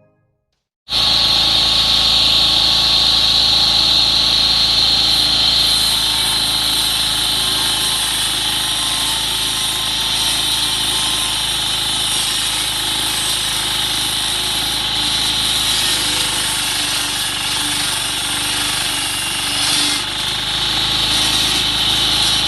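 Diesel-engined curb cutting machine running, a loud steady mechanical noise with a strong high-pitched edge, starting about a second in after a moment of silence and dipping briefly near the end.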